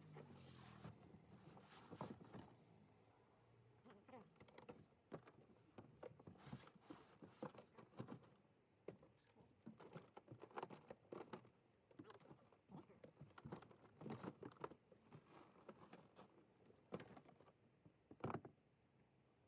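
Faint, irregular clicks, knocks and rustles of household items being handled and packed during a move, with a sharper knock near the end.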